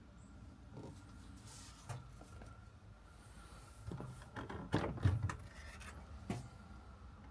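A few short knocks and clicks with some rubbing, bunched together about four to six seconds in, the loudest around five seconds, over a low steady hum.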